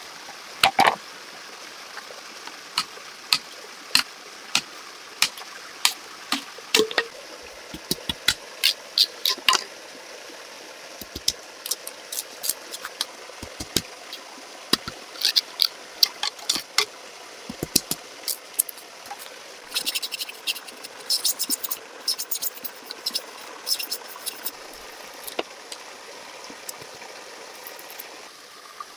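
Steady running-water hiss under many irregular sharp clicks and knocks, some coming in quick clusters.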